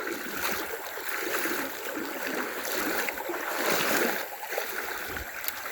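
Moving water on a small river: a steady rushing and splashing that swells about three to four seconds in.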